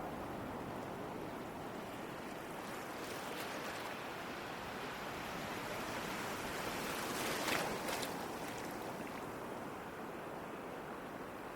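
Ocean surf: a steady wash of waves, swelling to one louder breaking wave about seven and a half seconds in, then settling back.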